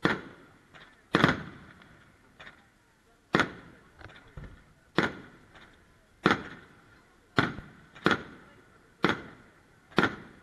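Aerial firework shells bursting overhead in a string of sharp bangs, about nine loud reports roughly a second apart with a few fainter ones between. Each bang trails off quickly.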